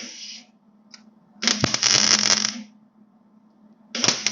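Welder laying short bursts of weld on sheet-metal patch panels: three crackling bursts, a brief one at the start, a longer one of over a second, and another starting near the end, over a steady low hum.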